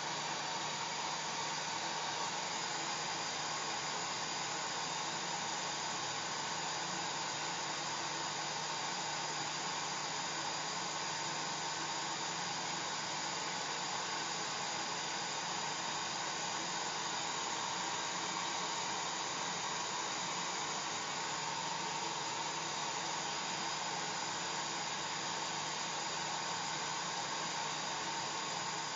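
Hair dryer running steadily: an even rushing of air with a faint steady motor whine under it.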